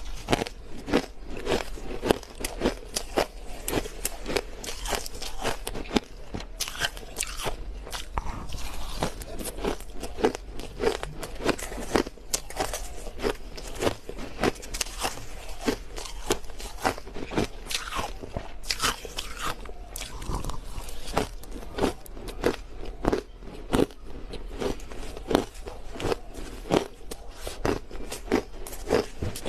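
Crushed ice crunching between the teeth as it is bitten and chewed: rapid, irregular crunches, several a second, with no pause.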